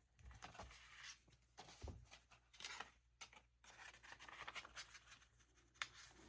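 Faint rustling, rubbing and light tapping of paper being handled and pressed down while it is glued onto a journal page, in short irregular bursts.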